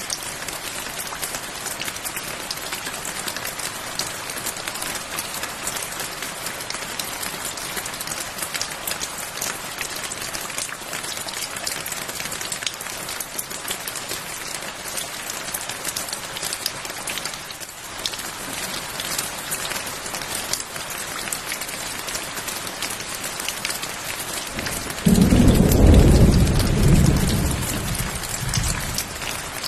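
Steady rain falling, with one thunderclap near the end: a sudden low rumble that fades away over about four seconds.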